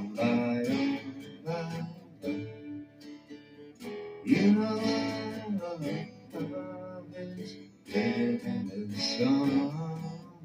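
Acoustic guitar strummed through an instrumental passage of a song, with louder chord strokes about four and eight seconds in.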